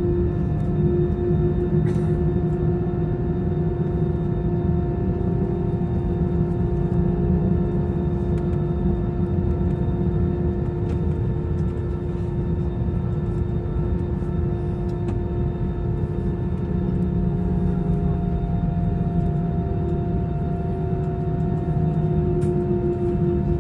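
Steady drone of an Airbus A320's CFM56 jet engines heard from inside the passenger cabin: a deep rumble with a few constant hum tones above it, holding level throughout.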